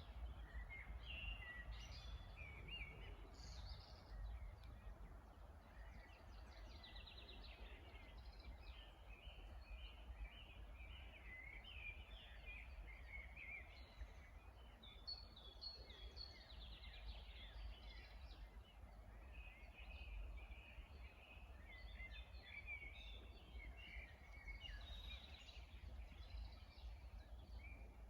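Several songbirds chirping and singing in quick overlapping phrases, faint, over a steady low rumble.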